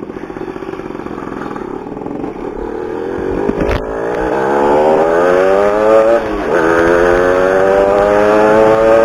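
Yamaha RS two-stroke motorcycle engine pulling away and accelerating hard. Its pitch climbs steadily, drops sharply about six seconds in as at a gear change, then climbs again. There is a single knock a little over three seconds in.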